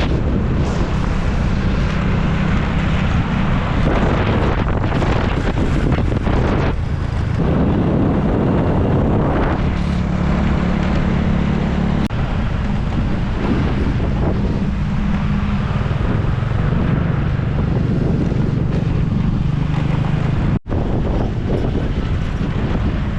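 Boat engine running steadily, its low drone shifting in pitch a few times, with heavy wind buffeting the microphone.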